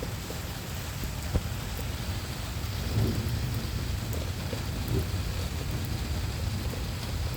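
Steady rain falling hard with low rolling thunder, the rumble swelling about three seconds in and again around five seconds.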